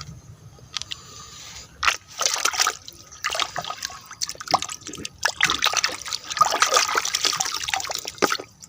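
Water splashing and trickling over a plastic toy as it is washed of mud, in irregular bursts with a few sharp clicks, starting about two seconds in.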